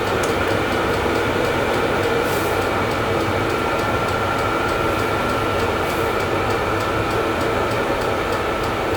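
VEVOR diesel heater running: a steady whir from its blower and combustion fan with a faint high whine, as it puts out hot air.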